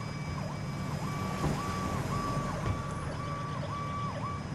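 Emergency vehicle siren sounding in a quick pattern, holding a high tone and dipping briefly about twice a second, then cutting off near the end. A steady low engine rumble runs underneath.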